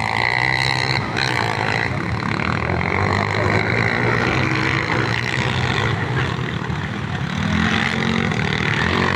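Motocross motorcycle engines running and revving continuously, with one engine's pitch climbing near the end.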